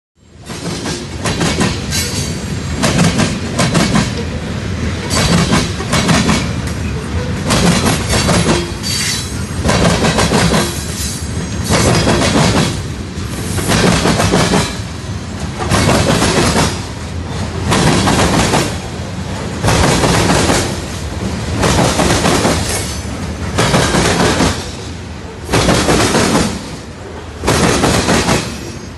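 Train wheels clattering over a railway diamond crossing, a loud clack-clack as each set of wheels bangs across the gaps in the rail, repeating every second or two as the cars roll through.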